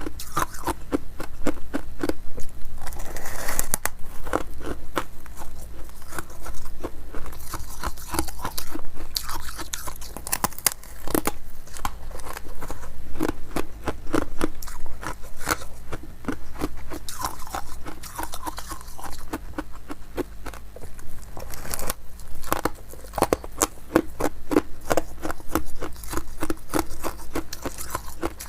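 Close-up chewing of frosty ice balls: rapid, continuous crunching and crackling as the ice is bitten and ground between the teeth.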